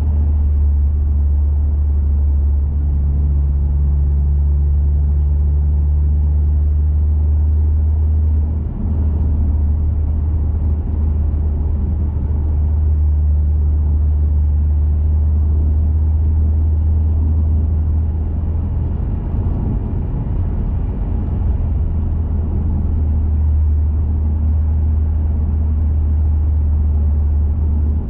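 2021 Mazda 3 Turbo hatchback's turbocharged 2.5-litre four-cylinder, breathing through an aftermarket CorkSport cat-back exhaust and high-flow intake, cruising at a steady speed: a low, steady exhaust drone with road rumble. There is a brief dip about nine seconds in.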